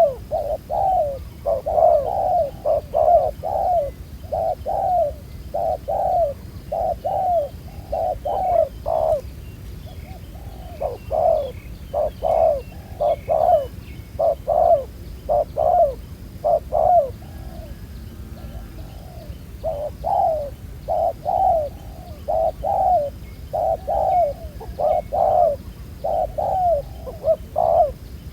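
Spotted dove cooing over and over, a long run of short, low coos in phrases with two brief pauses.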